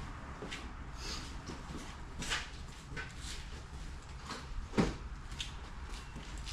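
Scattered light clicks and knocks of hand work in a garage shop, with one louder knock about five seconds in, over a steady low hum.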